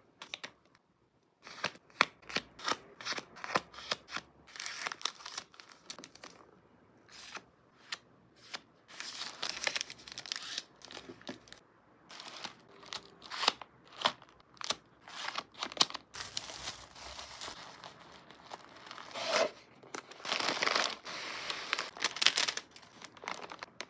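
Close-range packing sounds of paper and plastic being handled: rapid crinkling, light taps and clicks, with a tearing sound about two-thirds through and a longer stretch of crinkling near the end.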